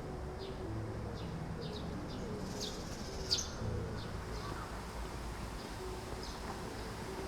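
Small birds chirping in short, falling chirps, a few at a time with the loudest about three seconds in, over soft background music of slow held notes.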